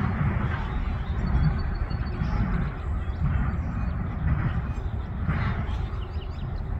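Doublestack freight train's cars rolling away on the rails, a steady low rumble with a soft beat about once a second.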